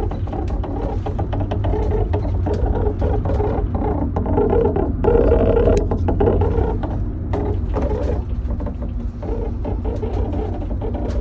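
High-pitched rubbing or chafing from the rear undercarriage of a Ford Transit AWD 350 HD camper van, an unidentified fault, over a steady low road-and-drivetrain rumble. It comes as a busy scraping patter with many small ticks, and turns louder and more squealing for about a second around five seconds in.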